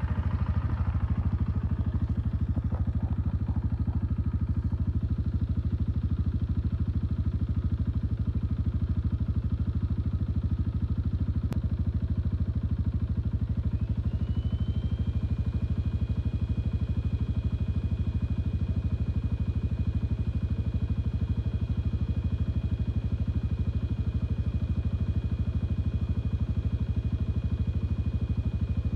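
An engine running steadily at idle, with an even, fast pulsing throb. About halfway through, two thin high whining tones glide up and then hold steady alongside it.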